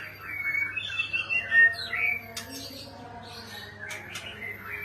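Oriental magpie-robin (kacer) singing, a quick run of varied warbled phrases and chirps that thins out midway and picks up again near the end.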